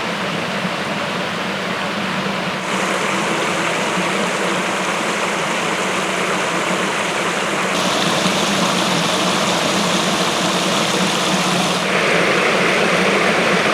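Waterfall: a steady rush of falling water. Its level and tone change suddenly three times: a quarter of the way in, about halfway, and near the end.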